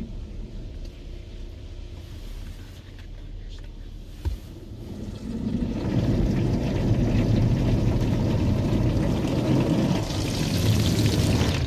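Automatic car wash machine running, with water spraying and splashing on the car. It grows louder about halfway through, and there is a single knock about four seconds in.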